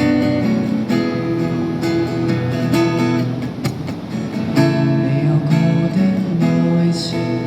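Acoustic guitar strumming chords in an instrumental break between sung lines of a Cantonese pop song, with the chord changing about every second.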